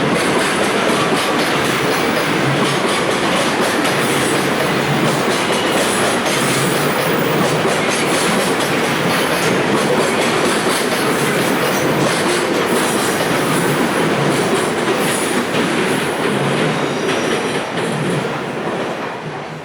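Container freight train's wagons rolling past on the rails: steady, loud wheel-on-rail noise that begins to fade in the last couple of seconds as the train pulls away.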